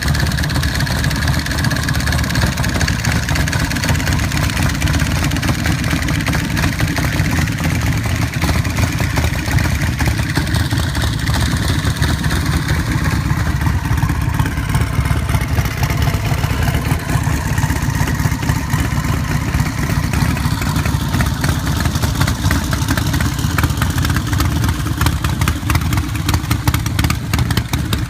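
Custom motorcycle's big engine running loudly and steadily with a rapid exhaust pulse, its speed wavering slightly.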